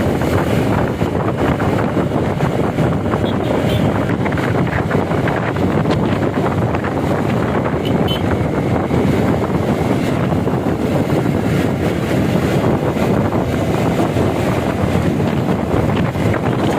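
Steady, loud wind buffeting the microphone of a moving motorbike, with the rush of the ride underneath.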